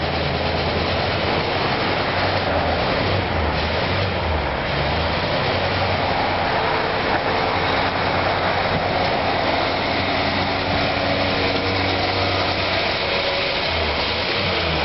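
A motor vehicle's engine running steadily, with a constant wash of noise around it.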